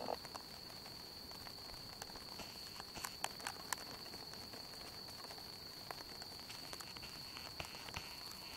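Faint campfire crackling: a few sharp pops and snaps, three close together about three seconds in, over a steady high-pitched tone.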